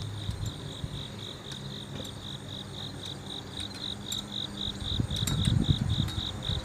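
An insect chirping in an even pulsing rhythm, about four chirps a second, over a low rumble of wind on the microphone that gusts harder about five seconds in.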